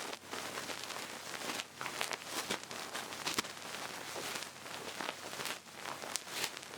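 Close, continuous rustling and scratching of a duck-feather ear pick brushing the microphone in ear-picking ASMR, with many short crackly strokes at an uneven pace.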